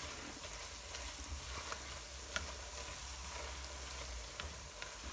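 Coarsely ground walnuts sizzling quietly in hot oil in a non-stick wok as they roast, stirred through with a spatula, with a few faint ticks of the spatula against the pan.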